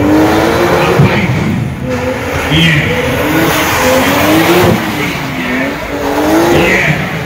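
Car engine revving hard, its pitch rising and falling over and over, with tyre noise, as in a burnout or drift display on a wet surface.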